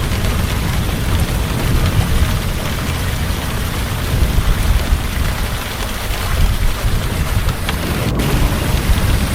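Heavy rain falling steadily, with a low rumble of thunder beneath it.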